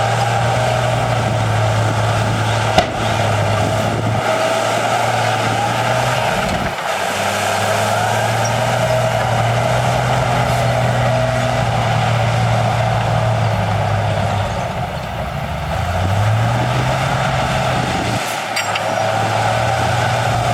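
Heavy earthmoving machinery's diesel engine running under load with a steady hum and a higher whine above it. The engine dips and then revs up about three-quarters of the way through. A single sharp click comes about three seconds in.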